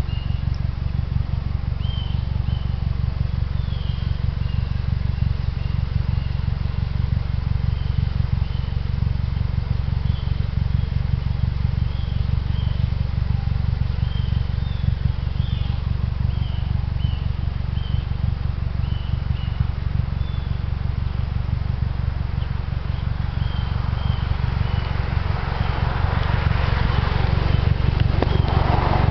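Mazdaspeed3's 2.3-litre turbocharged four-cylinder idling steadily, with scattered high bird chirps over it. A broad hiss builds near the end.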